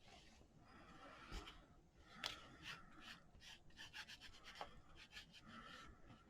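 Faint rubbing of an ink pad on paper: soft swishes with many light taps.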